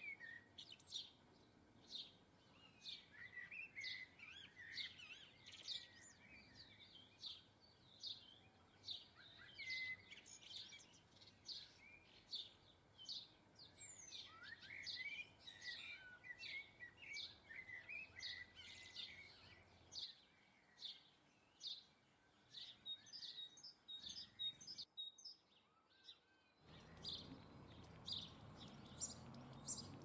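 Garden birds chirping and calling, many short faint high calls in quick, overlapping succession. The sound drops out briefly near the end, then the chirping resumes.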